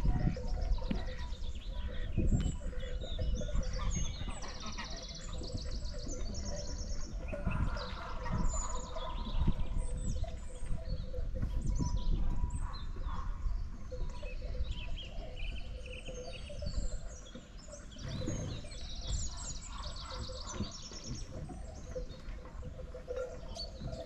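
Small birds chirping and trilling in rapid, repeated high notes, over a low outdoor rumble.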